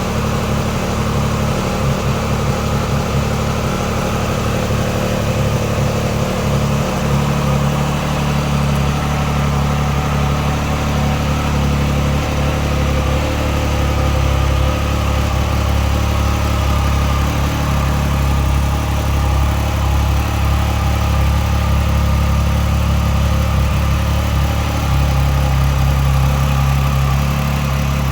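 Triumph Speed Triple 1200 RR's three-cylinder engine idling steadily through a Pro Race exhaust.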